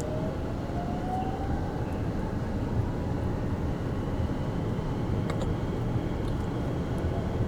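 Sunrise Express sleeper train running, a steady low rumble with a faint whine rising in pitch over the first two seconds and a couple of faint clicks about five seconds in.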